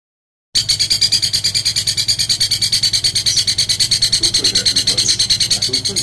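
A bird's rapid, harsh rasping chatter, about ten pulses a second at one steady pitch, starting abruptly about half a second in.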